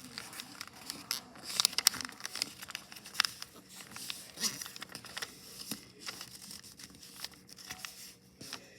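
Paper being handled and folded: irregular crinkles and crackles of the sheet as it is pressed and creased.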